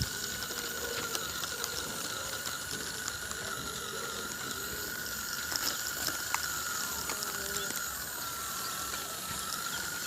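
Small electric DC gear motors of a homemade RC toy tractor running, a steady high whine that wavers slightly in pitch, with the plastic gears chattering and an occasional faint click.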